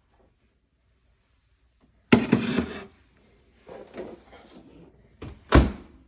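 KitchenAid microwave door and cavity being handled: a sharp clunk about two seconds in with a brief rattle after it, softer rattling a second later, then two sharp knocks near the end, the second the loudest, like the door being shut.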